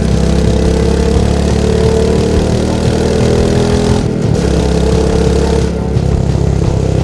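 Royal Enfield Meteor 350's single-cylinder engine and stock exhaust running on the move, the rider working the throttle. It eases off briefly about four seconds in and again near six seconds.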